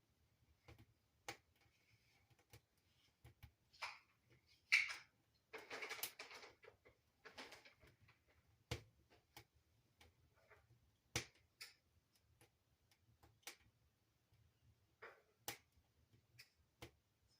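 Wood fire burning in a fireplace firebox, crackling faintly with scattered, irregular pops and snaps and a denser flurry of crackles between about four and eight seconds in.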